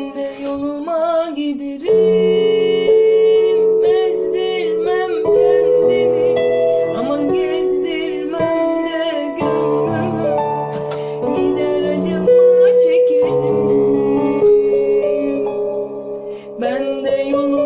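Electronic keyboard playing an arabesk melody: an ornamented, wavering lead line over sustained chords that change every second or two.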